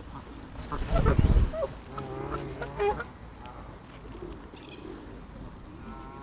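Waterfowl calling with short nasal honks, several calls about two to three seconds in. A loud low rumble on the microphone comes just before them, about a second in.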